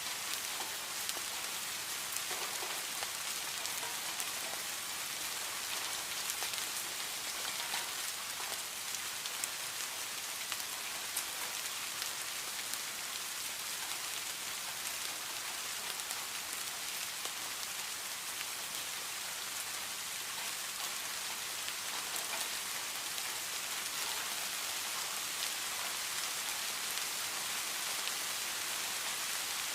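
Steady rain falling, a constant hiss with small drops pattering on a surface.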